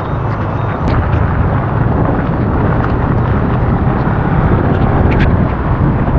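Heavy rain and traffic noise with wind rumbling on the microphone, and scattered sharp ticks of raindrops striking close by. The rumble grows a little louder about a second in.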